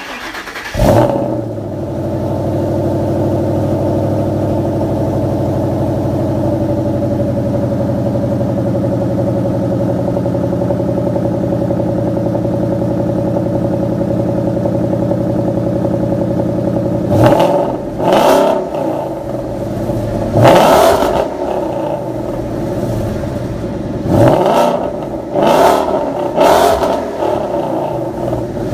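2013 Ford Mustang GT's 5.0-litre V8 on a cold start: it cranks and catches at once with a brief flare in revs, settles into a steady fast cold idle, then is revved in several short throttle blips over the last ten seconds or so.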